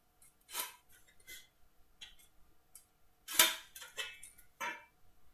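Light clicks and knocks of a marking square, pencil and timber pieces being handled and set down on a workbench, about six in all, the loudest about three and a half seconds in.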